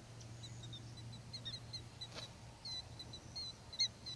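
Killdeer calling: a run of short, high notes, mostly faint, with a louder call near the end, over a faint steady low hum.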